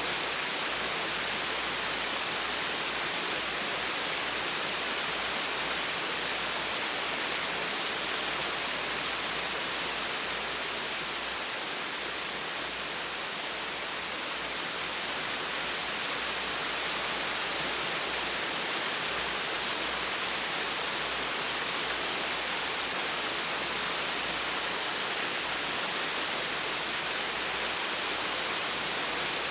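Small waterfall splashing in a steady, even rush of falling water, dipping slightly in loudness midway.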